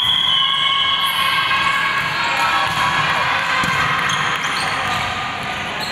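Game noise of a youth sparring match in a sports hall: many voices shouting and calling over one another, with a ball bouncing, and a brief high whistle-like tone right at the start.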